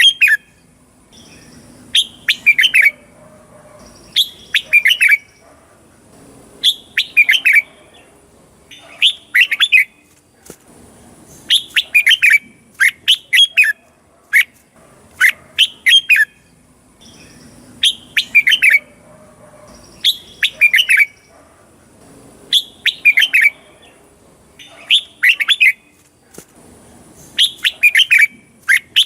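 Red-whiskered bulbul singing: short bright phrases of quick chirping notes, repeated about every two seconds.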